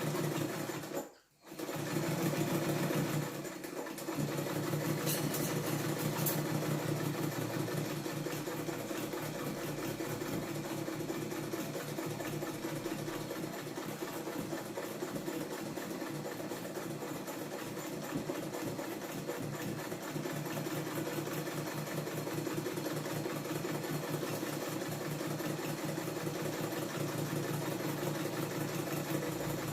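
Sewing machine running steadily as it stitches a seam, with a brief stop just over a second in.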